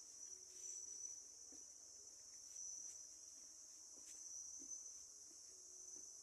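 A faint chorus of insects making a continuous high-pitched trill that wavers slightly in strength.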